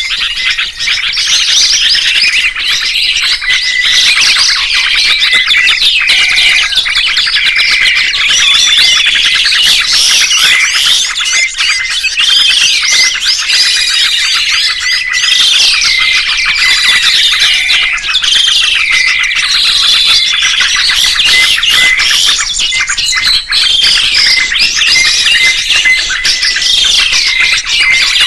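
Songbirds chirping and singing without a break: dense, high twittering with repeated rising-and-falling whistled phrases, a recorded song of the kind used to tutor caged songbirds.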